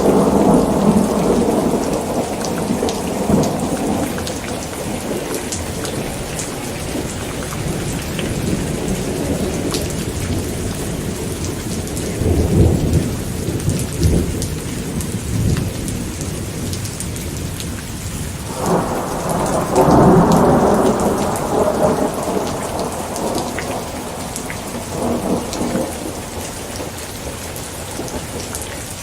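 Steady rain falling, with thunder rumbling three times: near the start, around the middle, and a longer, stronger roll about two-thirds through.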